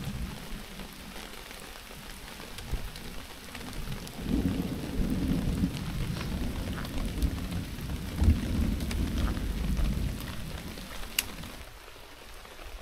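Steady rain falling, with a long low roll of thunder from about four seconds in until near the end.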